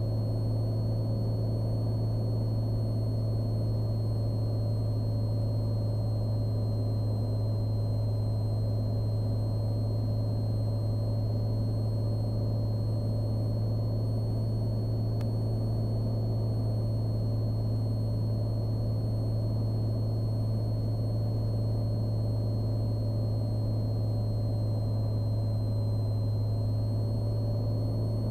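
Cessna Skylane cockpit drone: the single piston engine and propeller running steadily in cruise-descent on the approach, a constant low hum with a faint thin high whine above it.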